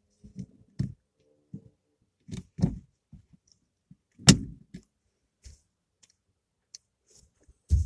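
A run of scattered knocks, thumps and clicks, the loudest a sharp knock about four seconds in.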